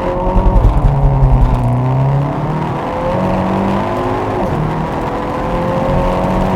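Hyundai Veloster N's turbocharged 2.0-litre four-cylinder accelerating hard from a standstill through its 8-speed dual-clutch gearbox. The engine note climbs steadily and drops at quick upshifts about two seconds in and again a little past four seconds.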